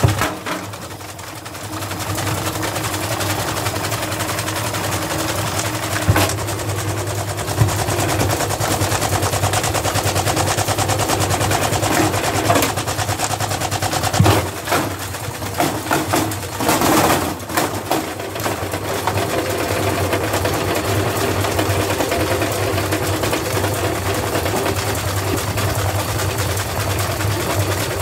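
Washing machine running hard with a steady motor hum and a dense, rapid rattling and banging. The knocking comes faster and more unevenly for a few seconds past the middle.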